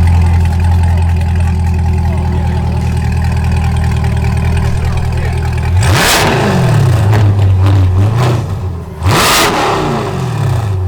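Car engine idling with a steady low rumble, then revved sharply twice, about six and nine seconds in, each rev climbing quickly and dropping back to idle.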